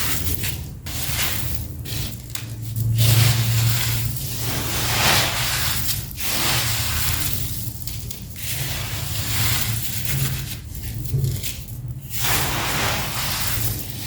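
Sand-cement lumps being crumbled and crushed, a gritty crunching and crackling that comes in irregular bursts of one to two seconds with short breaks between, over a low steady hum.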